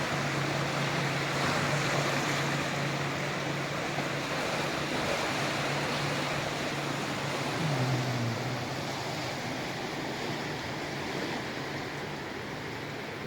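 ZCU-30 diesel-electric locomotive hauling a passenger train under power: a steady low engine drone over a broad rushing noise, with a brief drop in pitch about eight seconds in and the sound slowly fading toward the end.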